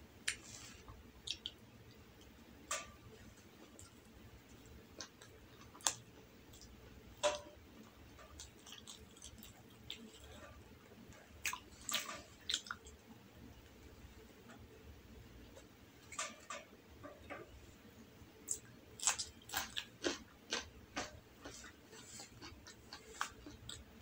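Close-miked chewing and wet mouth smacks of a person eating soft rolled egg omelette by hand, as short sharp clicks scattered through, thickest about halfway and again in the last quarter.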